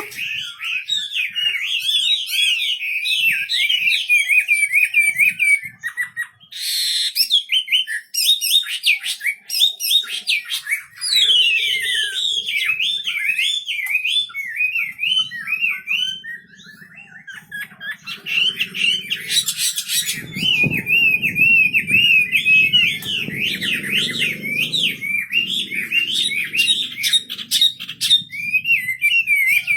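Wambi songbird singing vigorously: a long run of fast, chattering, warbling high notes with short breaks about six and sixteen seconds in. A faint low rumble sits under the song in the second half.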